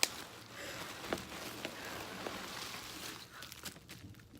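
Rustling and crinkling of camera packaging being handled, with a sharp click at the start and a few small knocks in the first three seconds, then quieter.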